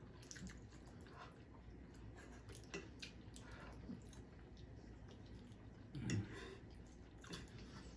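Faint eating sounds: scattered soft clicks and small wet mouth and utensil noises, with a brief low hum-like sound about six seconds in.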